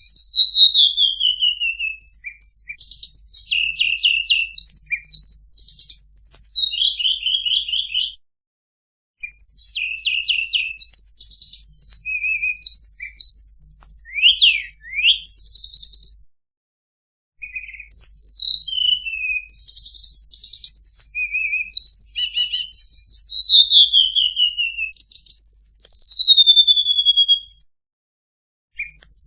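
Tledekan songbird singing a fast, varied song of sharp chirps, rapid trills and down-slurred whistles, in phrases broken by short pauses.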